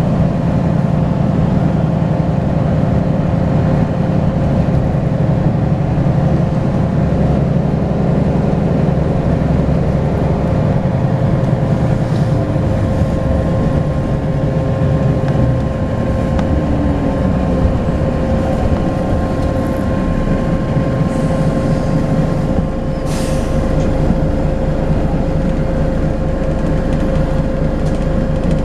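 Volvo B10BLE bus's turbocharged diesel engine running under way, with a steady high turbo whistle over it. The engine pulls hard for the first half, then eases off with its note falling about two-thirds of the way in, and a short hiss follows a few seconds later.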